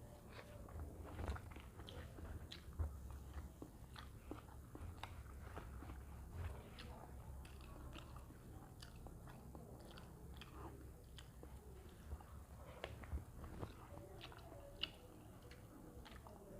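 A person eating a meal by hand off a banana leaf: faint chewing with scattered small crunches and clicks, over a low steady hum.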